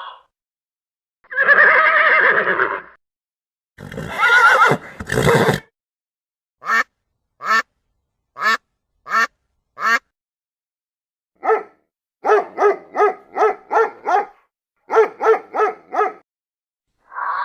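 A series of animal calls in turn. First comes a long call, then a rougher one. After that come five short calls about a second apart, and near the end quick runs of short calls, several a second.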